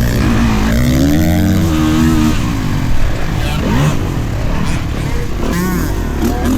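Kawasaki KX450 four-stroke dirt bike engine being ridden hard, revving up and down with the throttle. It holds a high note from about a second in, drops off after about two seconds, then rises and falls again.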